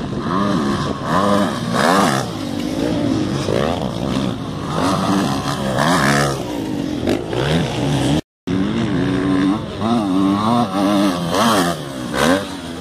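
Several motocross bikes on the track, their engines revving up and down in overlapping pitch swings as they accelerate and shift. The sound breaks off for a split second about eight seconds in.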